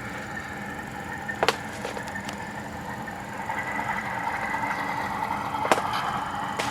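Model locomotive's Tsunami sound decoder playing diesel engine sound through its small onboard speaker, running steadily and growing louder about three and a half seconds in. Two sharp clicks, one about a second and a half in and another near the end.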